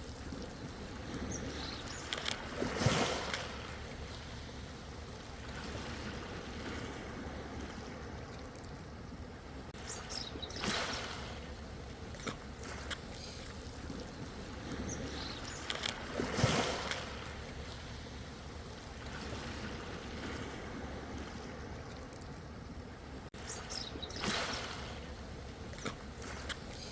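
Ocean waves washing in over a steady background wash, four larger surges about every six to eight seconds, each ending in a fizzing hiss.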